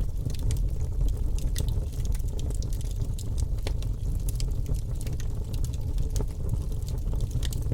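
Fire crackling in a fireplace: many small, irregular sharp pops and snaps over a steady low rumble of the flames.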